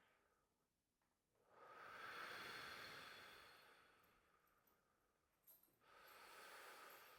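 Faint, slow, deep breathing of controlled qigong breaths: two long breaths, the first starting about a second in and lasting about three seconds, the second near the end, with a small click just before it.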